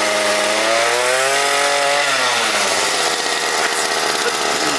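Small 50cc pit-bike engine warming up after a cold start. It is revved up from about half a second in and eased back down to a steady idle by about three seconds.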